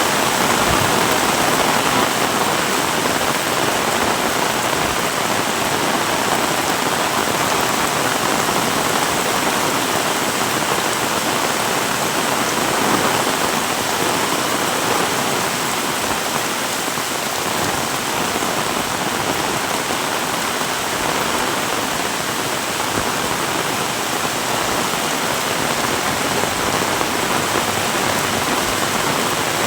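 Heavy rain falling, a dense, steady hiss that eases slightly about halfway through.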